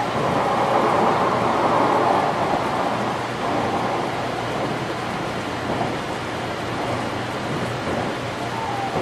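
Steady rushing running noise of a 500 series Shinkansen heard from inside the driver's cab, a little louder over the first few seconds.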